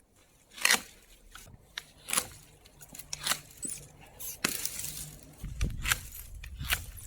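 Hand pruning shears cutting through branches: a sharp snap every second or so, with a longer rustle of twigs about halfway through.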